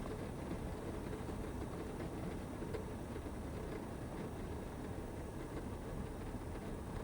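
Heavy rain falling steadily on the roof of a Toyota HiAce van, heard from inside as a dense, even low rumble.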